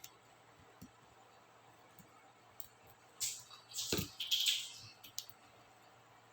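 Small plastic clicks from a laptop keyboard's keycaps being handled during disassembly, with a burst of scratchy scraping and a dull knock about four seconds in.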